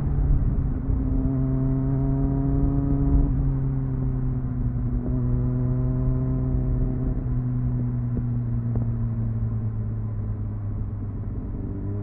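Triumph Speed Four's inline-four engine with stock exhaust heard from onboard, running steadily at part throttle. Its pitch steps down near the start and again a few seconds in, then falls slowly as the bike eases off.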